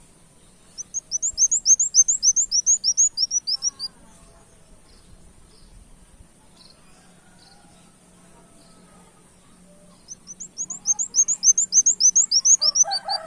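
Kolibri wulung sunbird singing in a lively, full-song state: two long runs of quick, high repeated notes, about six a second, each run lasting about three seconds. Faint chirps come between the runs, and a rooster begins crowing at the very end.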